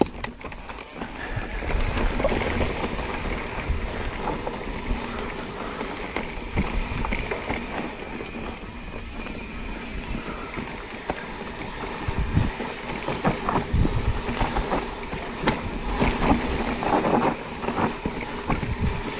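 Mountain bike descending a rough, technical trail: wind on the microphone over the steady noise of tyres rolling on dirt and rock. From about twelve seconds in, the bike rattles with sharp knocks over bumps.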